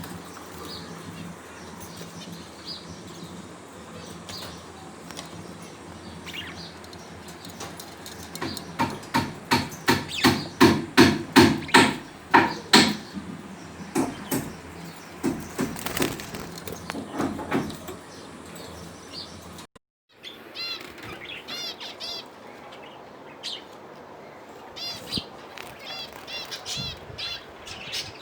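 Pet budgerigars chirping. In the middle comes a loud run of regular beats, about three a second, then many quick high chirps.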